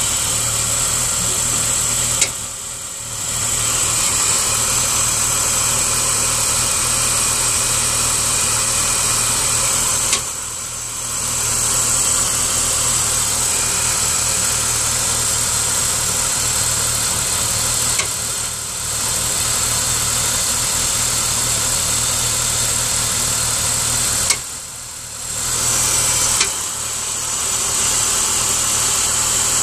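BMW 530i straight-six engine idling cold, with a sharp knock five times at irregular intervals, each followed by a brief dip in the engine sound. This is the strange knocking and rumbling the engine makes on a cold start.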